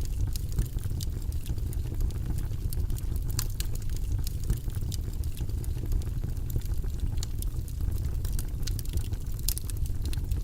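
Fire in a fireplace crackling, with many small, irregular sharp pops over a steady low rumble.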